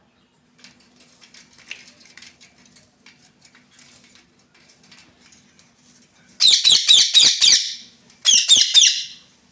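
Pet parrot screeching: a loud run of rapid, harsh calls lasting about a second, then a second, shorter run near the end, after a few seconds of faint clicking and rustling.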